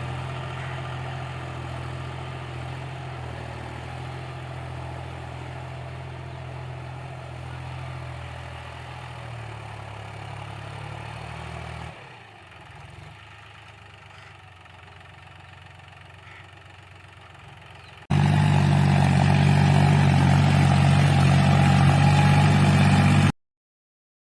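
John Deere tractor diesel engine running steadily, pulling an 11-tine cultivator. The engine note fades a little and drops quieter about halfway through. Then an abrupt jump to a much louder, closer engine sound lasts about five seconds and cuts off suddenly.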